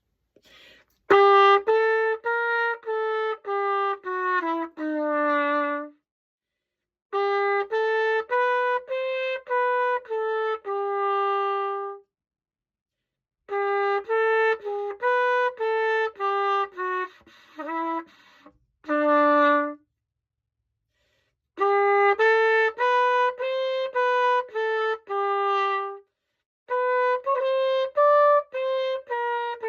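An old pocket cornet, just cleaned and reassembled, played solo: a melody of short, separately tongued notes in phrases of about five seconds, with brief breaks between phrases.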